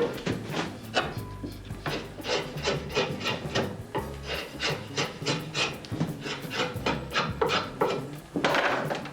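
Hand rasping on a wooden saddle frame: quick repeated scraping strokes, about three a second, smoothing off burrs along the edges.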